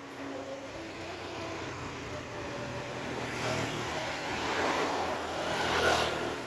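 A motor vehicle passing close by on the street, growing louder from about halfway and loudest just before the end, over a low steady engine hum.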